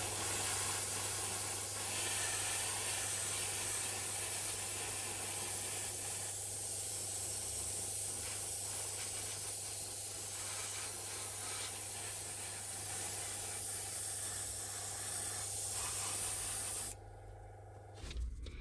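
Compressed-air spray hissing steadily, over a low hum, then cutting off suddenly about seventeen seconds in.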